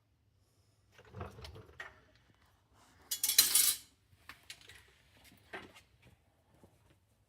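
Metal tools and parts clinking and clattering as they are handled, with a louder scraping rush about three seconds in.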